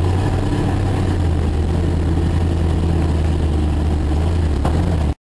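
Jeep engine running steadily with a low, even drone, cutting off abruptly near the end.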